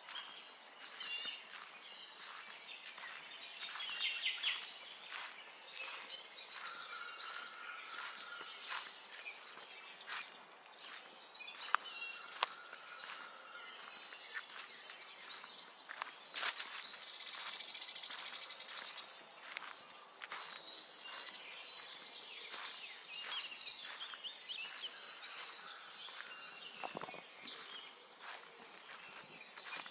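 Several songbirds chirping and singing at once, a dense mix of quick high calls, with a few longer held whistled notes now and then.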